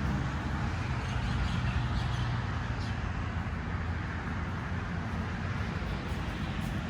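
Steady outdoor background noise: a low rumble with an even hiss over it and no single sound standing out.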